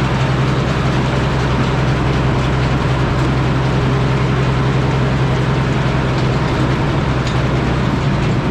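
Frick sawmill running steadily: a constant loud mechanical drone with a strong, even low hum, and no change in pace.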